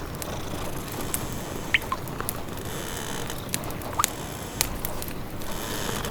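Wood fire crackling, with scattered sharp pops and snaps, over a cat's steady low purr.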